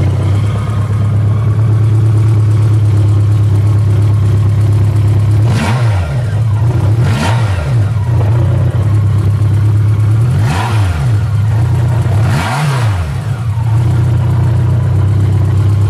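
BMW K1200LT's inline-four engine idling steadily, its throttle blipped four times in two pairs, each rev rising and falling back to idle.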